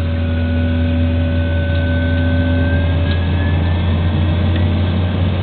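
Propeller engines of a small commuter plane droning, heard inside the cabin: a steady low drone with a thin whine above it that rises slightly in pitch about halfway through.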